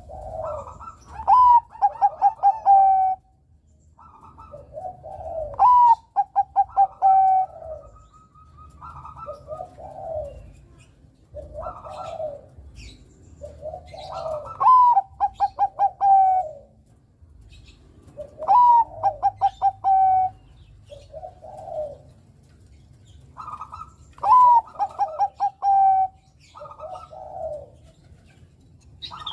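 Bangkok-type zebra dove (perkutut) singing its cooing song. The same phrase repeats about every four to five seconds: a low coo, then a higher note breaking into a quick run of short coos.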